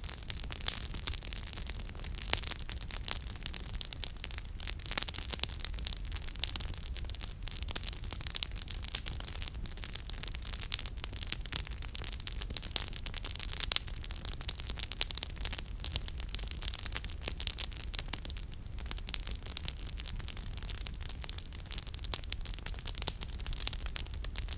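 Wood campfire crackling, with many sharp irregular pops and snaps from the burning firewood over a steady low rumble.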